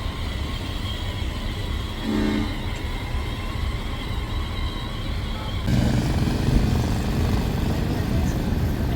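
Outdoor truck-show background of a steady low rumble, with a short horn-like toot about two seconds in. About halfway through, the sound suddenly becomes fuller and louder.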